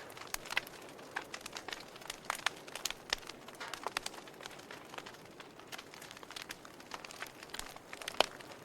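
Wood fire crackling in a fireplace: irregular snaps and pops over a faint hiss, with one sharper pop near the end.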